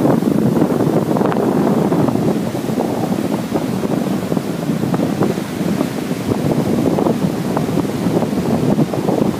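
Strong wind blowing across the microphone in a continuous buffeting noise, with surf breaking on the beach underneath.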